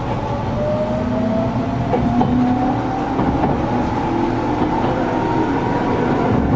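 Inside a Gakunan Railway 7000-series electric railcar under way: the traction motor whine rises steadily in pitch as the car accelerates, over the rumble of the wheels on the rails. The air conditioning hums along underneath.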